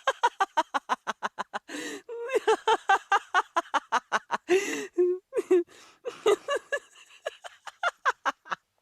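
A girl laughing hard in rapid, high-pitched ha-ha pulses, broken by a couple of gasping in-breaths, growing softer over the last few seconds.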